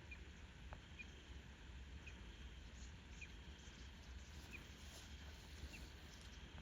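Near silence: faint outdoor ambience with a low rumble and a small bird's short high chirp repeated about once a second.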